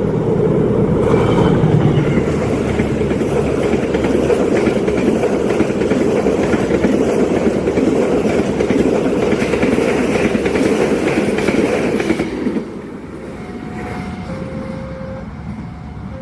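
Train passing close at speed: a dense rumble and clatter of wheels on rail that ends suddenly about twelve seconds in. Fainter alternating tones follow.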